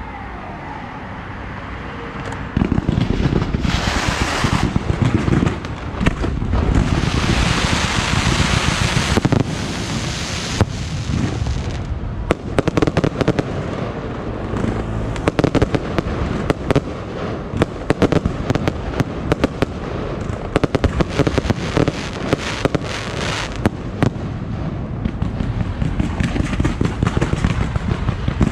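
Fireworks going off: heavy booming from a couple of seconds in, with long stretches of hissing, then a dense run of rapid sharp cracks and pops.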